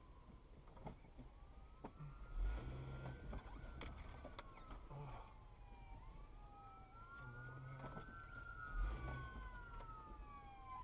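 Emergency vehicle siren approaching from behind, sounding a slow wail that rises and falls about twice, with a couple of low thumps.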